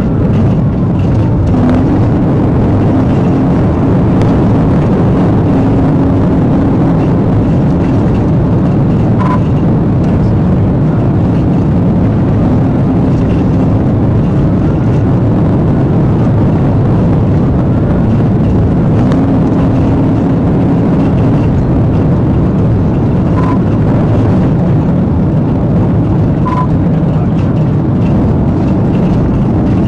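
Patrol car driving at high speed in a pursuit: loud, steady engine, road and wind noise.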